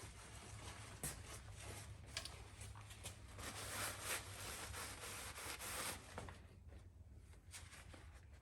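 Rubbing and rustling handling sounds with a few light knocks, loudest in the middle and fading near the end, over a steady low hum.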